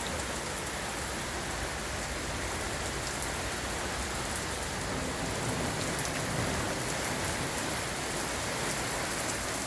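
Heavy rain pouring steadily, with a few louder drops striking close by.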